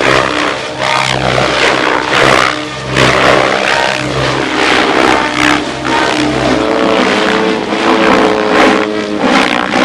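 Radio-controlled 3D helicopter flying aerobatics: a steady rotor and motor hum with repeated whooshing surges of blade noise as the rotor loads and unloads, and its pitch shifting in the later seconds.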